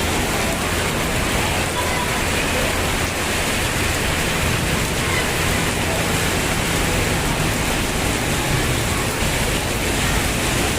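Heavy tropical rain pouring down steadily, an even, unbroken hiss.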